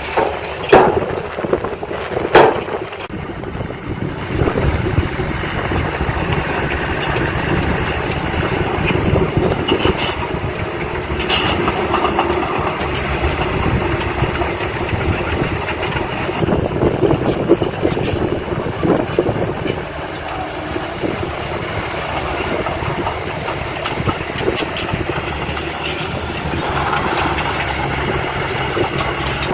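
Diesel engine of heavy earthmoving machinery running steadily, with two loud knocks in the first few seconds and a few lighter clanks later.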